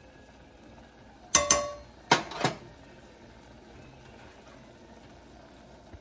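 A metal utensil clinking against a cooking pot: four sharp clinks in two quick pairs about a second and a half in, the first pair ringing briefly.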